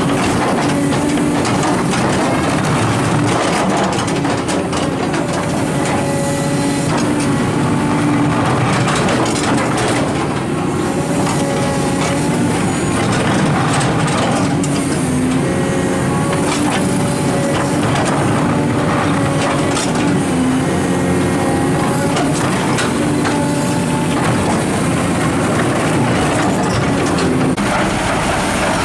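Heavy truck engines running steadily, their pitch shifting up and down, with voices in the background.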